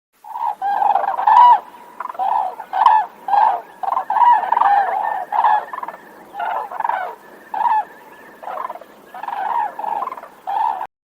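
Crane calling: a long series of loud, short bugling calls, about one or two a second, some overlapping as if more than one bird is calling.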